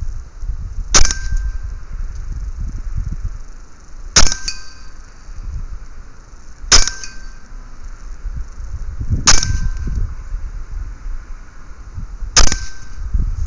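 Five air rifle shots, spaced a few seconds apart. Each is a sharp crack followed by a brief metallic ring.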